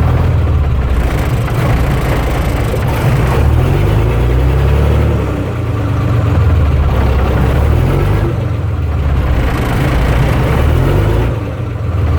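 Heavy 6x6 army truck engine working under load while towing a tree stump out. The revs rise and fall several times, with brief drops in level about halfway through and near the end.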